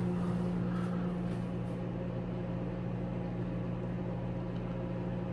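Samsung microwave oven running on its popcorn sensor setting: a steady low hum, with no kernels popping yet.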